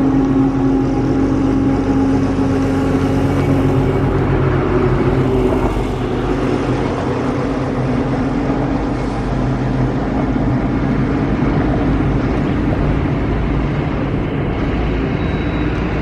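Vande Bharat Express electric train running through the station: a steady rumble of wheels on rail with a low electric hum, holding level throughout.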